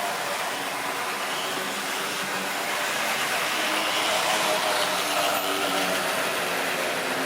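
Model railway train running along the track: the electric motor's whine and the wheels rattling on the rails, growing a little louder about four seconds in and then easing off as it passes.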